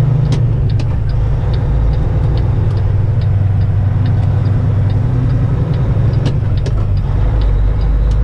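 Diesel engine of a Kenworth semi truck running steadily, heard from inside the cab as a low drone, with a faint regular ticking about twice a second.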